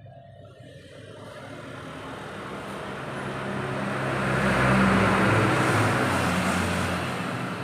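A motor vehicle engine, growing louder to a peak about five seconds in and then fading, its pitch staying about level.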